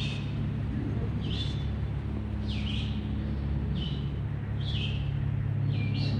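A bird calling over and over, one short high call about every second, above a steady low hum.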